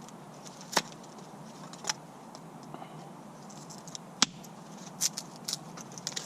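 A Mora Companion knife carving split kindling into feather sticks: a handful of short, sharp cuts and scrapes at irregular intervals.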